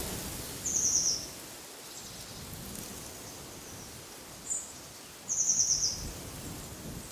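A small songbird gives two short, rapid, high trills about four seconds apart, each dropping slightly in pitch, with one brief high chirp between them. A steady outdoor hiss and low rumble of wind runs underneath.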